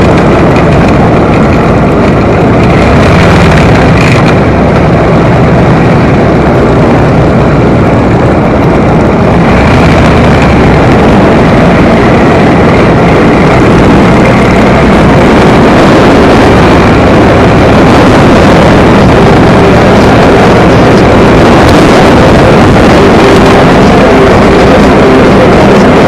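Motorcycle on the move, its engine running under a loud, steady rush of wind and road noise.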